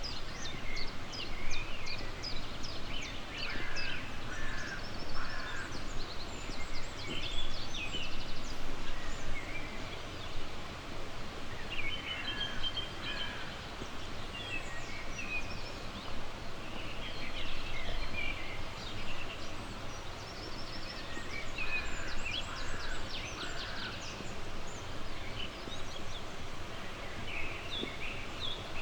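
Several wild birds singing and calling at once, with short chirps, rapid trills and quick whistled phrases, over a steady background hiss of outdoor ambience.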